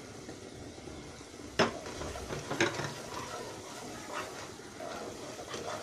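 Onion-and-spice masala sizzling softly in a pan as panch phoron is added and stirred, with a spoon knocking against the pot a few times.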